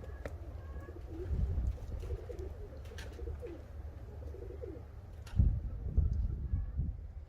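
Soft, low cooing calls repeating over a low rumble, with louder low rumbling bumps about five to seven seconds in.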